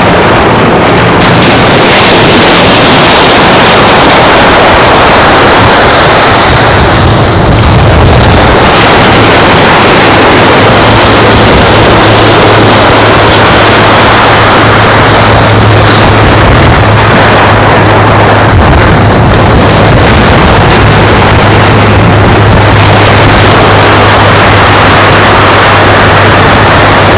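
Loud beach ambience, with wind on the microphone and surf making a dense, unbroken hiss. About eight seconds in, a steady low engine hum joins it and holds.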